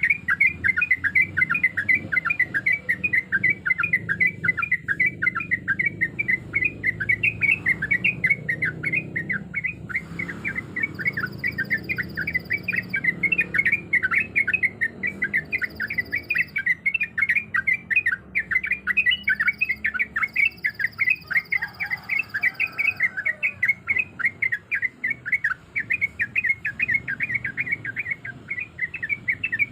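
Yellow-vented bulbul singing a long unbroken run of rapid chirping notes, several a second.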